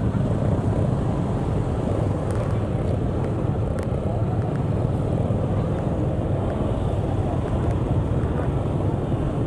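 Steady vehicle road noise with wind buffeting the microphone, heard while travelling along a street.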